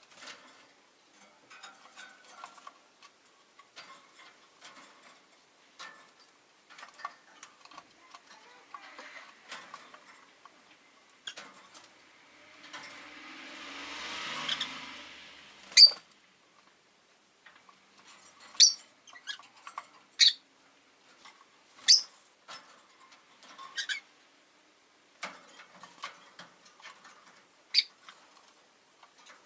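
Rosy-faced lovebirds giving loud, short, high chirps every second or two through the second half, over soft clicking and pecking sounds. About halfway through, a passing car swells and fades for a few seconds.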